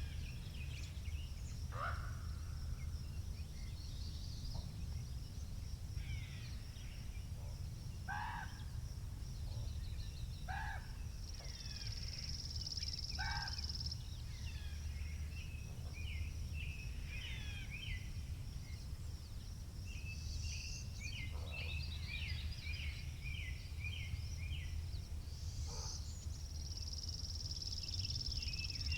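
Wind rumbling on the microphone, with several songbirds singing and chirping throughout. A high buzzing trill lasts about two seconds, twice: around the middle and near the end.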